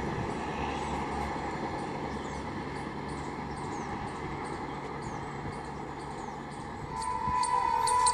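Low steady rumble of a train approaching from far down the line, with birds chirping faintly over it. About seven seconds in, a steady high tone starts and grows louder.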